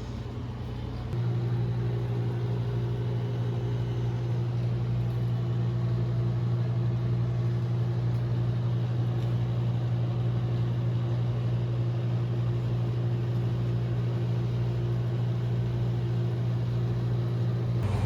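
A steady low machine hum with one strong low pitch. It steps up in level about a second in and then holds evenly.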